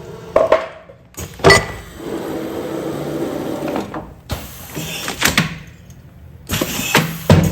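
Automatic container sealing machine working through its cycle: sharp clunks of the mechanism at uneven intervals, the loudest about a second and a half in and near the end, with stretches of steady running noise between them.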